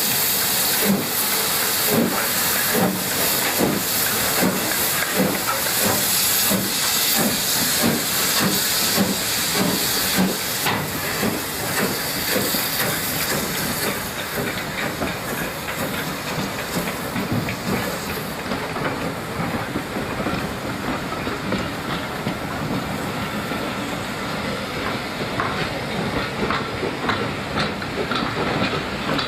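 Steam locomotive working a train, its exhaust beating rhythmically under a loud hiss of steam. About ten seconds in the hiss drops away, and the train runs on rolling and clicking over the rail joints.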